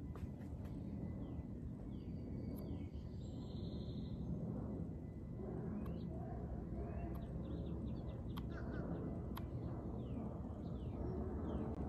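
Birds giving short, falling chirps now and then over a steady low outdoor rumble, with a few faint sharp clicks.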